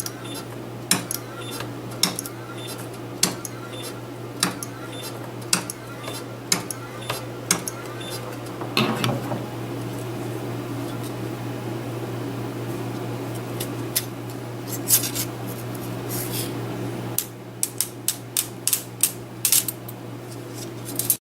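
Capacitive-discharge micro spot welder welding copper foil: sharp clicks about once a second over a steady electrical hum, with a longer hiss about nine seconds in. About seventeen seconds in the hum stops and quicker clicks follow.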